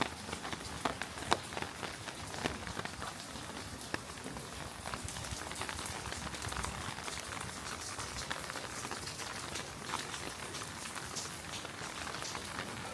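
Heavy rain falling in a city street: a steady hiss with many scattered sharp drop ticks.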